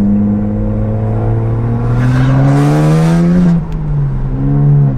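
BMW 135i's 3.0-litre twin-turbo straight-six running through a straight-through exhaust with no catalytic converter, pulling under light throttle. The engine note climbs steadily, drops sharply about three and a half seconds in, then rises briefly again near the end.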